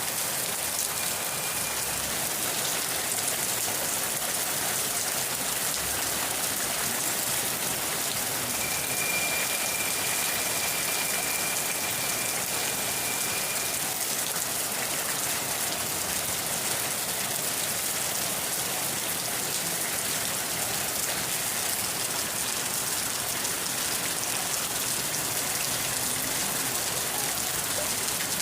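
Steady rain falling, an even hiss of drops on surfaces that holds at one level throughout.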